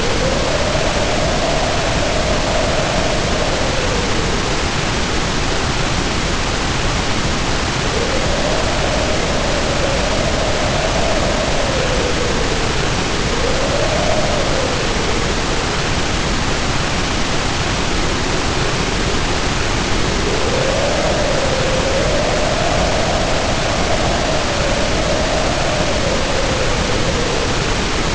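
Storm of heavy rain pouring down as a steady loud hiss, with wind howling over it: a single wailing pitch that rises and falls in three long swells, with lulls between them.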